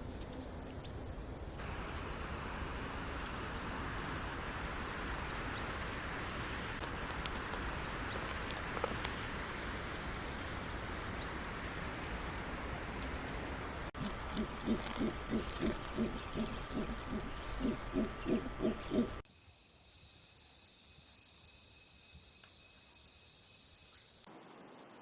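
A run of separate animal-call recordings. First comes a high, short chirp repeated about every second and a half over a background hiss. Then a rapid series of low pulsing calls, and finally a loud, steady high-pitched trill, like an insect's, that cuts off suddenly.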